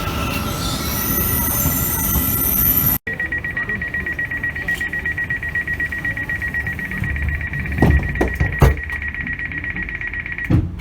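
Italo high-speed train rolling with a high-pitched wheel squeal, then after a brief cut a rapid, steady electronic beeping, the train's door-closing warning, for about seven seconds, with a few knocks near the end.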